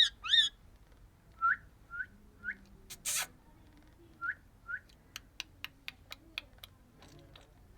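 A female parrot calling: two loud bending whistles, then short rising chirps, a single harsh squawk about three seconds in, two more chirps, and a quick run of sharp clicks, about five a second.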